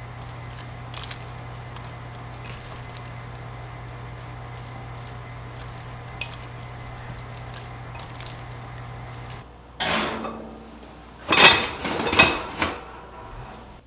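A steady low hum with faint ticks that cuts off about two-thirds of the way in, followed by a few loud clinks and scrapes of kitchen cookware and utensils.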